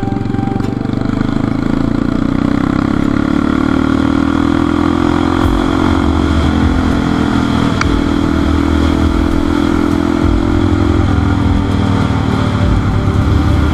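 Motorcycle engine running under way, its note climbing slowly as it gathers revs, then changing pitch abruptly twice, about halfway through and near the end, as at gear changes.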